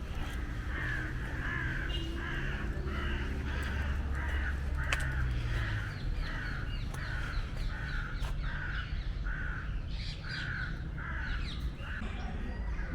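A bird calling over and over in a long run of harsh, caw-like notes, about two a second, stopping near the end. A low rumble runs under the first half.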